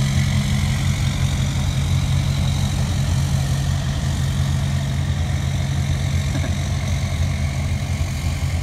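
A truck engine idling steadily, a deep even hum that does not change in pitch.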